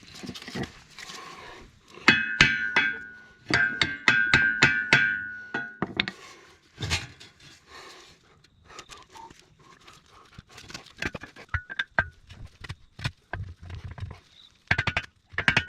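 Steel retaining pin being hammered into a mini excavator's blade mount: a quick run of ringing metal-on-metal strikes from about two to six seconds in, lighter scattered taps after, then another ringing run near the end as the pin goes home.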